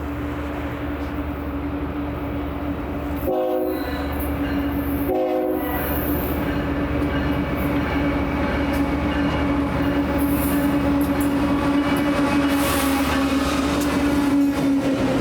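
BNSF train with a steady rumble that grows slowly louder, and its locomotive horn sounding two short blasts about three and five seconds in.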